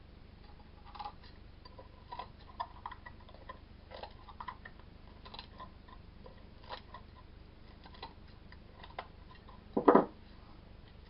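Scattered small clicks and snips of sticky-backed sandpaper being trimmed and handled around the edge of a sanding disc. There is one louder brief knock near the end.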